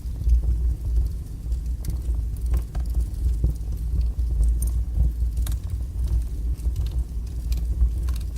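Wood fire burning strongly in a fireplace: a steady low rumble with irregular small crackles and pops scattered through it.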